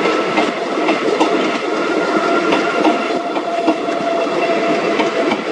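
Train passing close by: the double-headed ALCo WDM-3A diesel locomotives run past, then passenger coaches roll by, wheels clicking over the rail joints. A steady whine runs through it.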